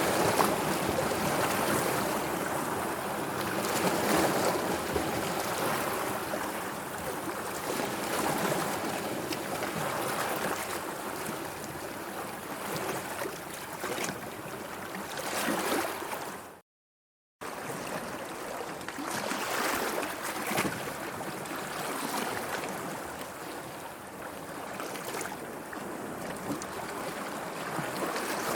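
Sea waves washing and lapping, a steady wash that swells and eases every few seconds. It is broken once, a little past halfway, by a gap of total silence lasting under a second.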